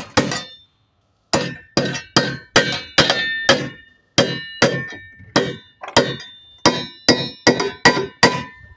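Hammer striking metal: a steady run of about twenty blows, roughly two a second, each with a short metallic ring, after a brief pause near the start. The blows are setting chimney bracket hardware against the wall.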